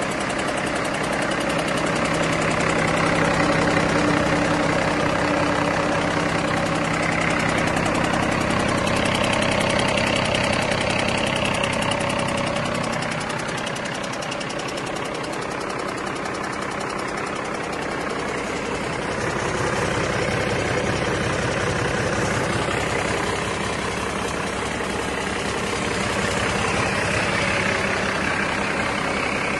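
2008 Cummins ISX (CM871, 400 hp) inline-six diesel truck engine running steadily at idle on a test run. Its loudness dips slightly about halfway through, then picks up again.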